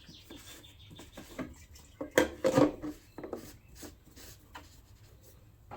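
Light clicks, knocks and rubbing from handling a fuel container and the small engine's fuel tank while topping it up with a little petrol, with two louder clunks about two seconds in.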